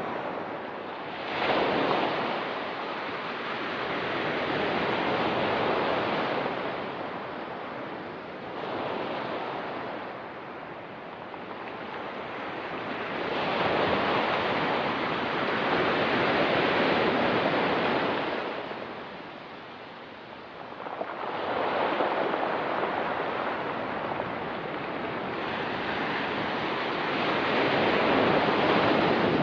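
Ocean waves breaking and washing up on a rocky beach, the surf noise rising and falling in surges every few seconds.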